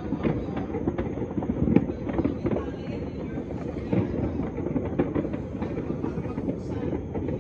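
Massed New Year's fireworks and firecrackers going off across a whole city at once. It is a continuous rumbling crackle of distant bangs, with sharper pops every fraction of a second and one louder crack just under two seconds in.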